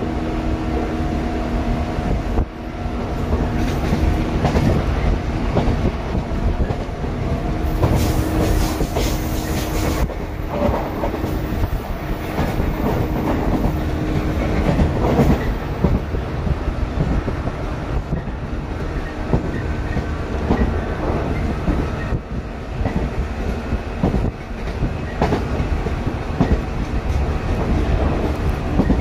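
Running noise inside a Shinano Railway 115 series electric train car (KuMoHa 115-1067) at speed with its windows open: steady rumble of wheels on rail with clickety-clack over the rail joints, a steady hum underneath, and air rushing in through the open windows. About eight seconds in, a louder hiss rises for some two seconds.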